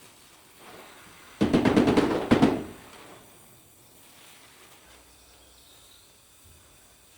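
A loud burst of rapid mechanical rattling, about a second long, starting a little over a second in, over faint background.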